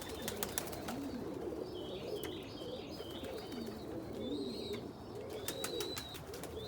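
A loft full of fancy pigeons cooing, many voices overlapping, with high chirps repeating over the top and scattered sharp clicks, most of them in the first second.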